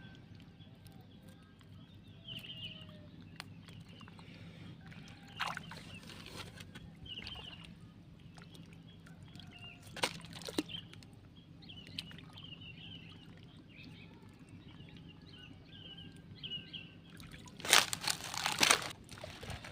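Water sloshing and splashing, with a louder burst of splashes near the end, over a steady low hum and repeated short bird chirps.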